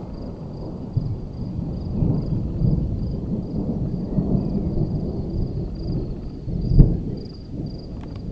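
Thunder rumbling in long low rolls, with a sharper, louder crack about seven seconds in. Insects chirp in an even pulse a few times a second behind it.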